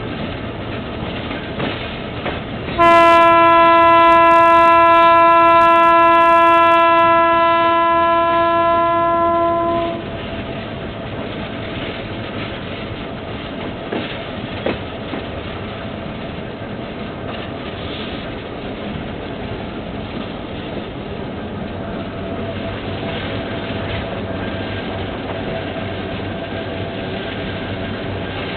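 Horn of a General Motors GT-22 diesel locomotive sounding one long blast of about seven seconds, starting about three seconds in, heard from aboard its train. Underneath and after it, the steady rumble and clatter of the train running along the track.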